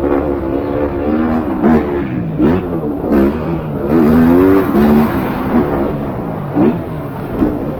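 MX2 motocross bike engines revving hard, their pitch climbing and dropping again and again with throttle and gear changes, more than one bike at times.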